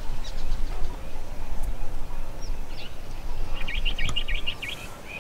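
Wild birds chirping, with a quick trill of about ten notes near the end, over a low steady rumble.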